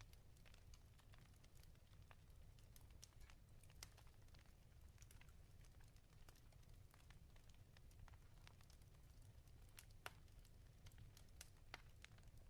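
Faint wood fire crackling in a fireplace: irregular sharp pops and ticks, a few louder ones about ten and twelve seconds in, over a steady low rumble.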